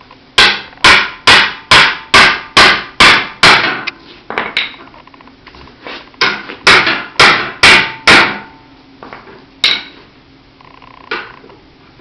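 Tire iron being hammered against the steel back plate of a Suzuki Boulevard C50/M50 muffler, punching a hole through the metal: a run of about eight sharp, ringing metal strikes at roughly two a second, a few lighter taps, a second run of about five strikes, then two single blows near the end.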